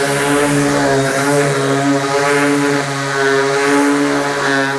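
Electric power sander running steadily on the hull's primer, a constant motor hum with a slight waver in pitch.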